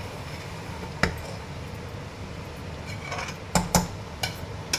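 A metal spoon clinking against a cooking pot while curry is stirred: a few sharp, irregular clinks, one about a second in and a close pair near the end, over a steady low background.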